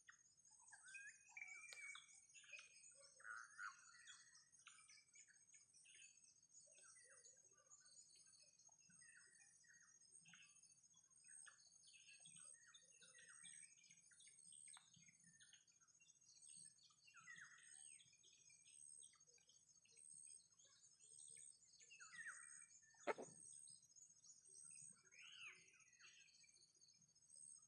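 Faint, scattered bird chirps and short twitters over a steady, high, pulsing insect chorus, with one sharp click about 23 seconds in.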